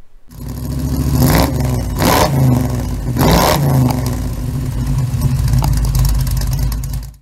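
Small-block Chevy 350 V8 in a 1936 Chevrolet coupe hot rod, blipped three times in the first few seconds, then idling steadily; the sound starts and cuts off abruptly.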